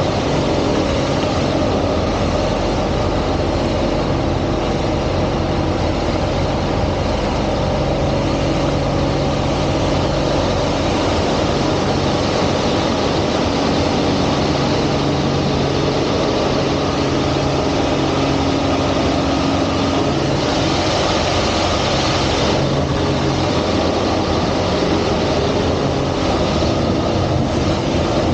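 Single-engine aerobatic plane's piston engine running steadily, with a rushing hiss rising for about two seconds around twenty seconds in.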